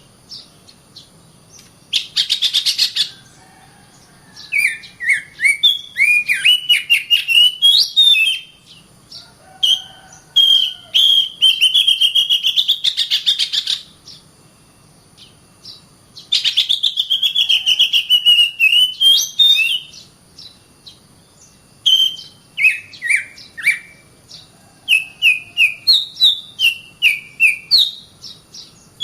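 Oriental magpie-robin (kacer) singing in rapid phrases: clear sliding whistles mixed with fast, scratchy chattering runs, each phrase broken off by a short pause.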